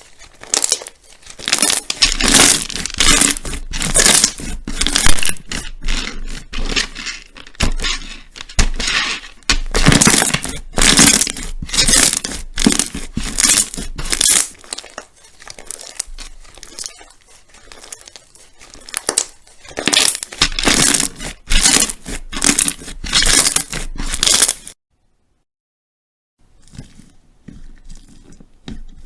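Crunchy slime being squeezed and pressed by hand, crackling and popping in bursts about once or twice a second. The sound cuts off suddenly near the end, then returns as softer squishing.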